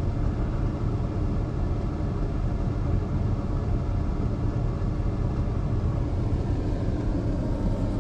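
A vehicle's engine idling steadily, heard from inside the cab as a low, even rumble.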